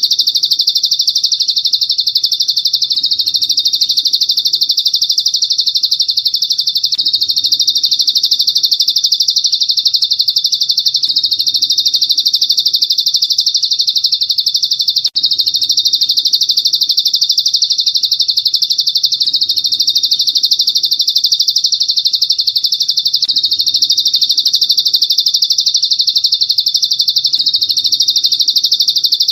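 A songbird's continuous, rapid, high-pitched trilling chirp, played as a masteran recording for training caged songbirds. It runs without pause except for a split-second break about fifteen seconds in.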